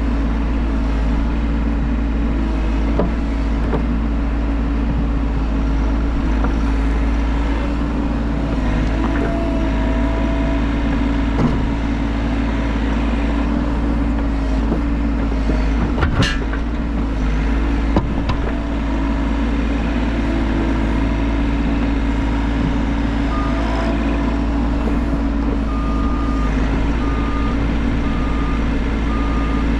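Bobcat E50 mini excavator's diesel engine running steadily under work, with a sharp knock about halfway through. Near the end a warning alarm starts beeping at an even pace.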